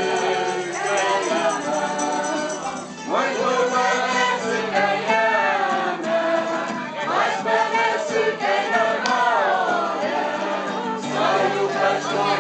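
Music: several voices singing a song together over a held low accompaniment that changes note every few seconds.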